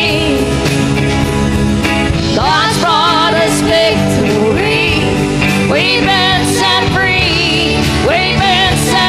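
Live worship band playing a contemporary worship song, with voices singing long, wavering notes over the full band.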